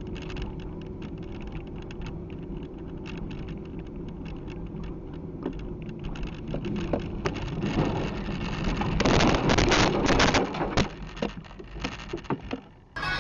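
Car on the road heard from inside: a steady low rumble with many small ticks. A louder rush of noise swells about two-thirds of the way in, then fades and cuts off abruptly near the end.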